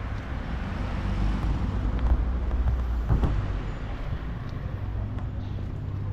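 Street traffic: cars passing, with a steady low rumble.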